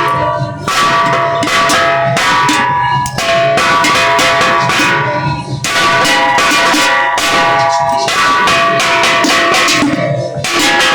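Bells struck over and over in quick succession, their ringing notes overlapping in a dense, continuous clangour.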